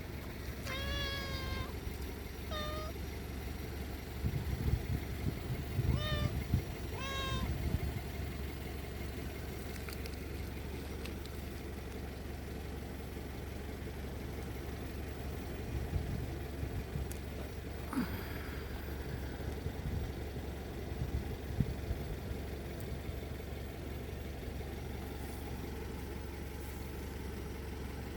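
Domestic cat meowing, about four short meows in the first eight seconds, over a steady low rumble. A single sharp click comes about two-thirds of the way through.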